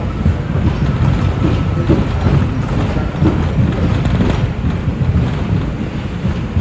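NYC Subway R142 train running at speed between stations, heard from on board: a steady, loud rumble of steel wheels on the rails.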